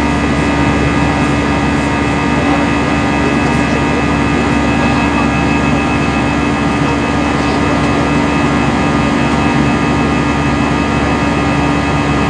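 Steady jet engine and airflow noise heard inside an Airbus A320 cabin after takeoff, with a constant droning hum under it.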